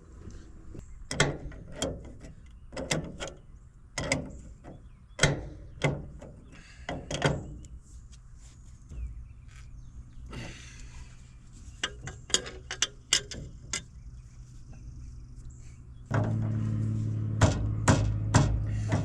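Irregular knocks, clunks and clatters of metal and hard parts being handled, then about 16 seconds in the earthmoving machine's engine starts and runs at a steady idle.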